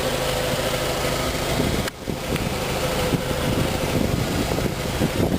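2003 Volkswagen Jetta's 2.0-litre four-cylinder engine idling steadily, with a brief dip in level about two seconds in.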